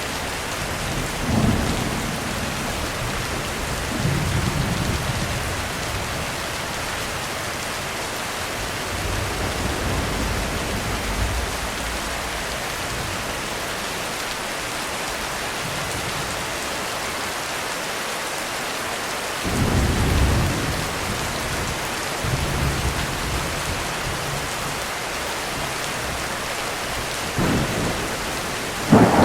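Heavy rain drumming on a roof in a steady hiss, with rolls of thunder rumbling low several times. The strongest roll comes about two-thirds of the way through, and a sharp thunderclap cracks at the very end.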